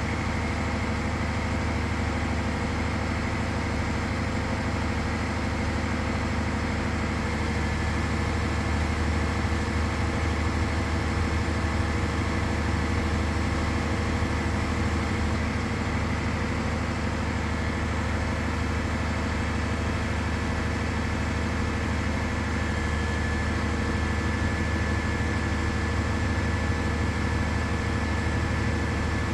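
Crane truck's heavy engine running steadily at a constant speed while the crane lifts, with a faint steady high whine joining about a quarter of the way in.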